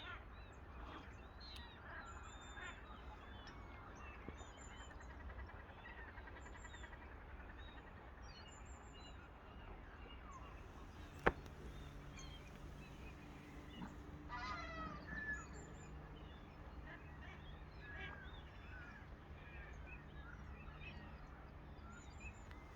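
Waterfowl on a lake calling, with scattered short calls throughout and a quick run of repeated honking and quacking calls about fourteen seconds in. A single sharp click sounds about eleven seconds in.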